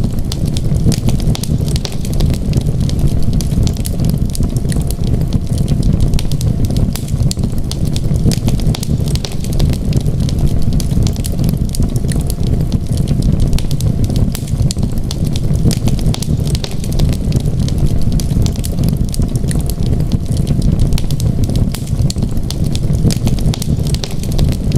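Wood fire crackling in a fireplace, with many small pops over a steady low rumble.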